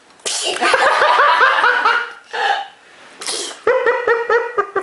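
High-pitched laughter in two bouts, the second a quick run of short 'ha' syllables. Two short breathy bursts come between them.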